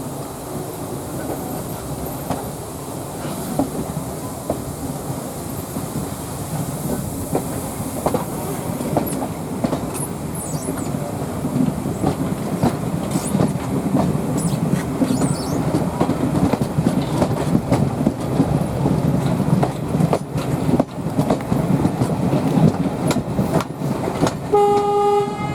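Riding in a train behind a steam locomotive: a steady rumble of wheels on rails with scattered clicks over the rail joints, growing louder. Near the end comes a short whistle note, about a second long.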